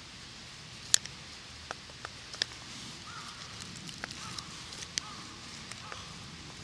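Wood campfire crackling: irregular sharp pops over a soft steady hiss, the loudest pop about a second in.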